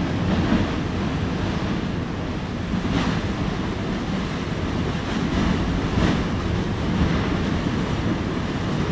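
Lava lake at the bottom of a volcanic crater roaring and churning, rising and falling in surges like surf, with wind buffeting the microphone.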